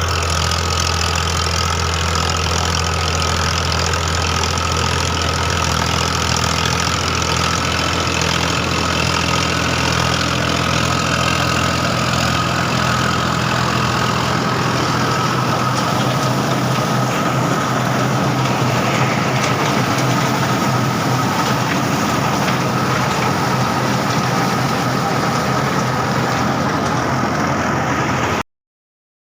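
Tractor engine running steadily, with a steady high whine over the engine note; the sound cuts off abruptly near the end.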